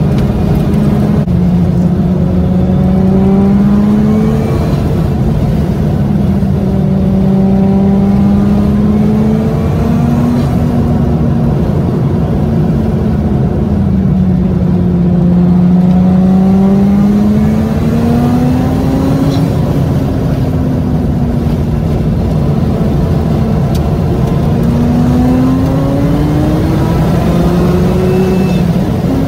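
A Mazda RX-7 FD's twin-turbo rotary engine heard from inside the cabin while driving, its note sweeping slowly up and down as the throttle and road speed change. The recording is sped up one and a half times, which raises the pitch to mimic a three-rotor 20B.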